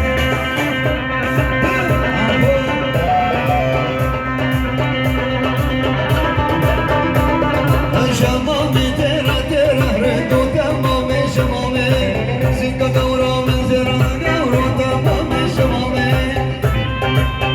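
Live electronic keyboard (oriental org) music with a steady drum-machine beat under a sustained melody.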